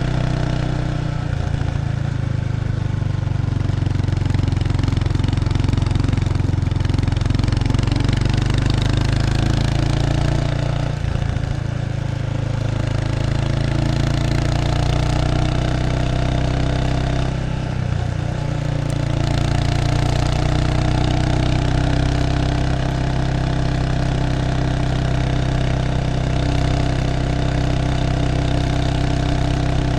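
Exhaust note of a 1993 Kawasaki Estrella 250's single-cylinder engine through its stock muffler, recorded close to the tailpipe while riding. The engine runs steadily, and its note drops and picks up again twice, about a third and about two-thirds of the way through.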